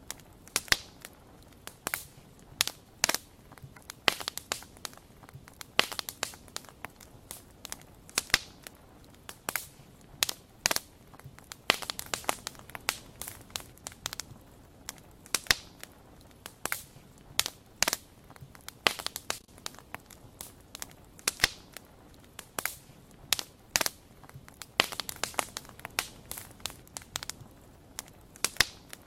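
Wood fire crackling, with irregular sharp pops and snaps from the burning wood.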